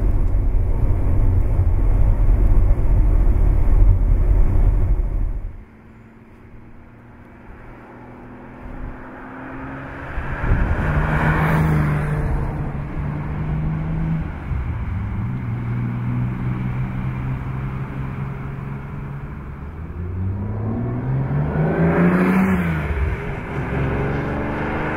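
Ferrari 365 GTB/4 Daytona's 4.4-litre V12 passing by at speed twice, each time rising in pitch as it approaches and dropping as it goes past, with a steadier engine note between the passes and the revs climbing again near the end as it pulls away. Before the passes, a loud low rumble fills the first five seconds or so and cuts off suddenly.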